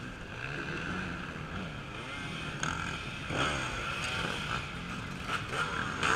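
Off-road race motorcycle engines running and revving, their pitch rising and falling as the bikes work through the course, busier in the second half.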